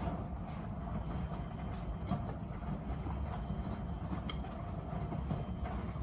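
Miele W Classic front-loading washing machine running early in its wash cycle: a steady low rumble with a few faint clicks.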